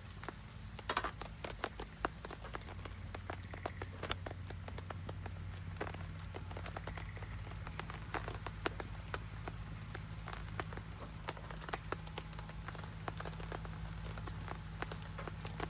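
Wood fire crackling on a low fire base stand, with many irregular sharp pops over a steady hiss of rain falling.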